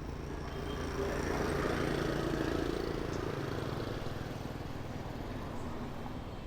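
Street traffic noise, with a passing vehicle swelling about a second in and fading away over the next few seconds.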